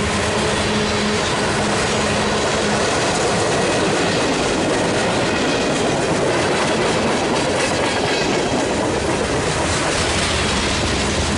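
Freight cars of a mixed freight train rolling past close by: a steady, loud rumble and clatter of steel wheels on the rails, with faint high-pitched wheel squeal.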